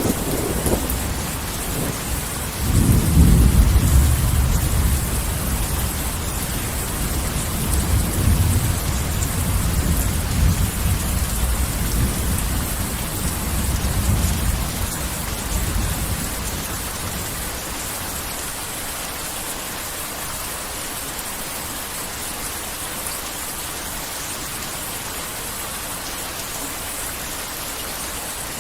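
Heavy rain falling steadily, with thunder rumbling low: a roll starts about three seconds in and swells and fades in waves until about halfway through, leaving only the rain.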